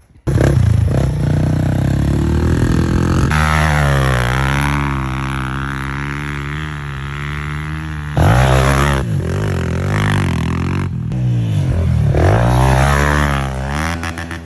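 Honda CRF150 dirt bike's four-stroke single-cylinder engine running hard, its pitch falling and rising again several times as the rider backs off and opens the throttle. It gets suddenly louder about eight seconds in.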